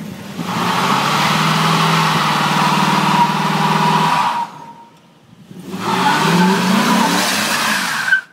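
2003 Chevy Silverado pickup engine revving hard while its rear tires spin in a donut, with a hiss and squeal from the spinning tires. It goes in two spells of about four seconds each, with a short drop in the middle, and the engine pitch rises and falls in the second spell.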